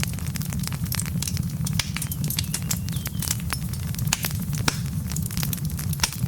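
Wood fire burning in a fireplace: dense, irregular crackles and pops from the logs over a steady low rumble of the flames.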